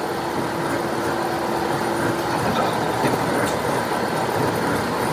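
Heavy workshop machinery running steadily, with a steady hum that stops about halfway through.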